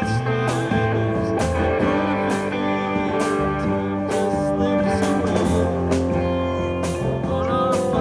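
Rock music: electric guitar playing over a moving bass line and a steady drum beat.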